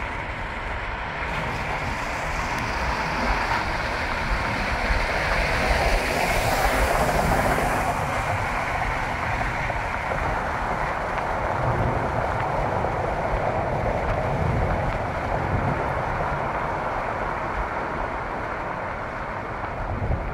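Freight train of intermodal well cars rolling along the track, a steady rumble and rail noise mixed with the road and wind noise of a car driving alongside. The noise swells briefly about six seconds in.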